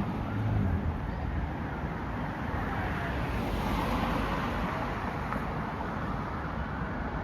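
Street traffic going past: steady tyre and engine noise, with faint whines that rise and fall in pitch.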